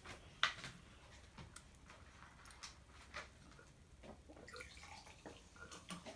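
Quiet, scattered wet swallowing and mouth sounds as someone downs a drink, with small clicks between gulps.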